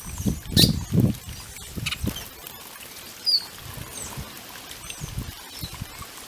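Small birds bathing in a water fountain: several short splashes in the first second and again about two seconds in, with brief high chirps and calls scattered throughout.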